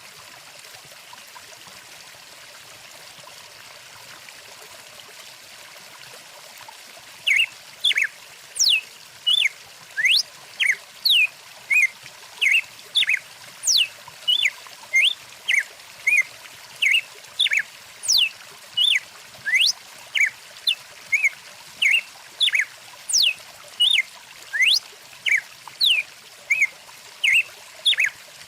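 Stream water running steadily, with a songbird starting about a quarter of the way in and repeating short, sharp sweeping chirps about twice a second, louder than the water.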